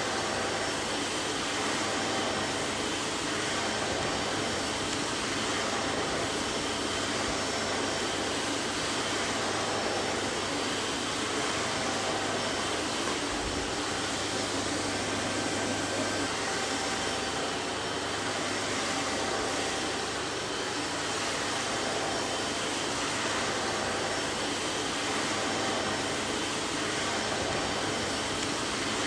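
Vacuum cleaner running steadily: an even whooshing noise with a faint hum and a few faint steady whining tones in it, unchanging throughout.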